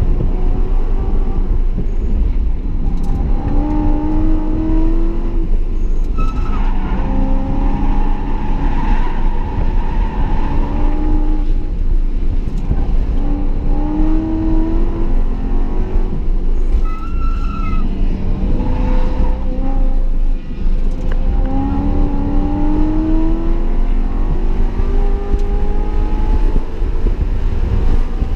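BMW E92 M3's V8 heard from inside the cabin, driven hard on track: its pitch climbs over a few seconds, drops back and climbs again several times as the car runs up through the revs and shifts or brakes. Steady road and wind rumble lies beneath.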